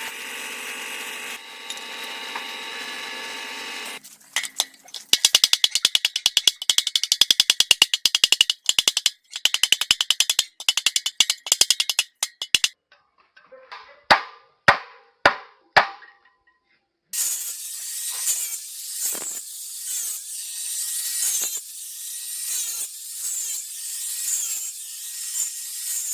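A run of workshop tool sounds in turn. First a steady machine hum with several held tones for about four seconds, then a fast run of sharp clicks for about eight seconds. Then four or five separate sharp knocks, a short pause, and a scratchy hiss with repeated strokes to the end.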